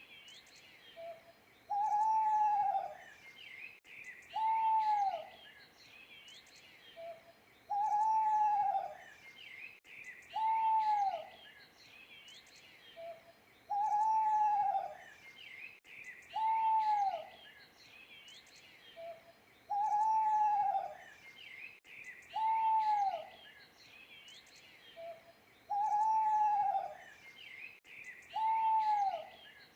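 An owl hooting in pairs, a longer hoot followed about a second later by a shorter one, each hoot rising and then falling in pitch; the pair repeats about every six seconds. Small birds chirp faintly behind it.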